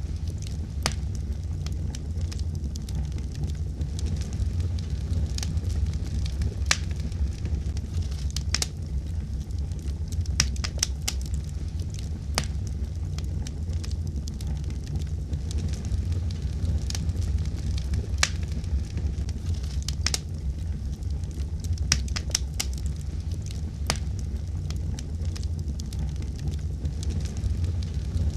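Fire burning in a fireplace, crackling with frequent sharp, irregular pops over a steady low rumble of flames.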